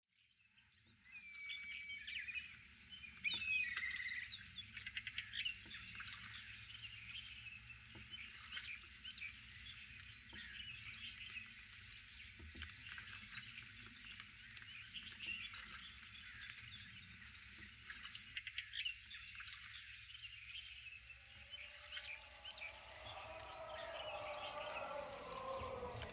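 Many small birds chirping and calling at once, some calls sliding in pitch, faint against a quiet background. About three quarters of the way through, a wavering voice-like sound fades in beneath the birdsong and grows louder.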